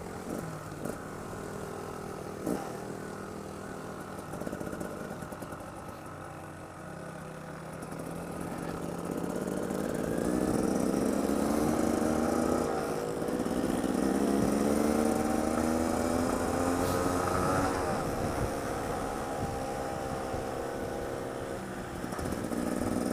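Trail motorcycle engine running under way, heard through a helmet-mounted GoPro's internal mic with a skeleton back. The revs climb from about a third of the way in, dip briefly, climb again, then ease off near the end.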